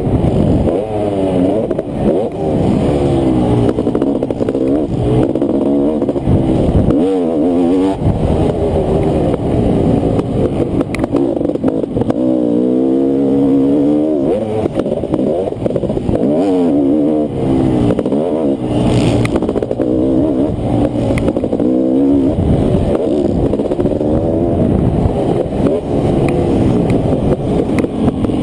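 Honda CR500 single-cylinder two-stroke motocross engine racing around a track, revving up and down over and over as the throttle is opened and chopped.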